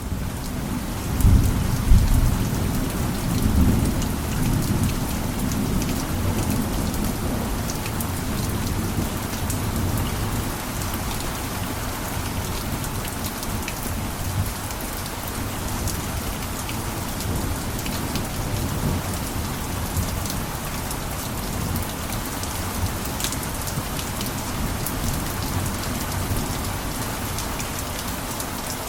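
Steady heavy rain falling with scattered drops ticking. A low rumble of thunder swells in the first few seconds and fades away.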